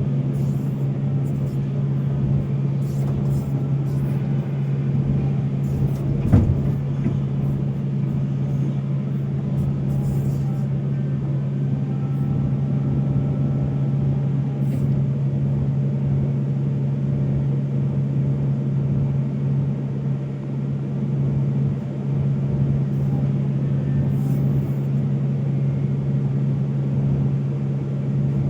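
Volvo excavator's diesel engine running steadily under work, a constant low drone. One sharp knock comes about six seconds in.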